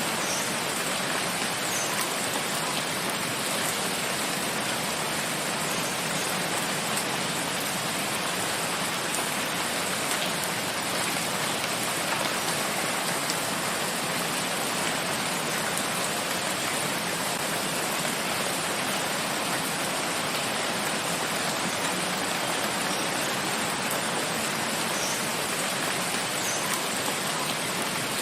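Steady, heavy rain falling in a forest, an even dense hiss.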